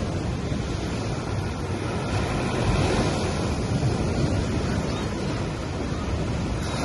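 Ocean waves washing onto a beach: a steady wash of surf with a low rumble, swelling a little about three seconds in.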